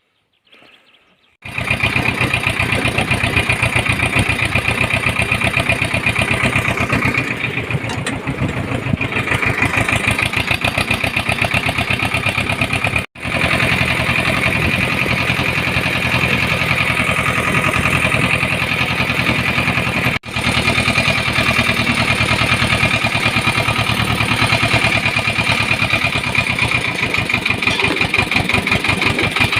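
Mini tractor engine running steadily with a fast, even firing pulse. It starts suddenly about a second and a half in and is broken by two very short gaps.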